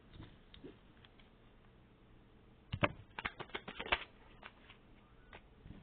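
Cards being handled, a quick run of sharp clicks and flicks about three seconds in, with a few single taps before and after.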